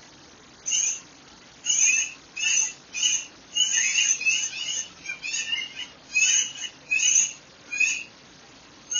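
Birdsong: a bird calling in a fast run of short, bright notes, starting about a second in and repeating irregularly, about once or twice a second, over a faint steady background.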